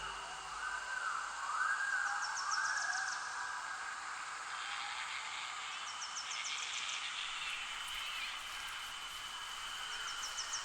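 Nature ambience: birds calling with short insect-like chirp trains repeating every few seconds over a steady high insect drone. A low drone fades out in the first second.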